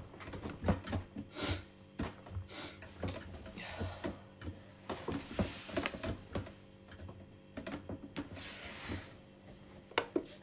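Hands working a coffee machine: scattered plastic clicks and knocks with a few short rustles.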